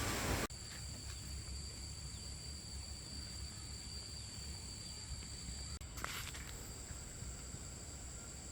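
Outdoor rural ambience: insects calling in a steady, high-pitched drone over a low rumble, with abrupt cuts about half a second and six seconds in.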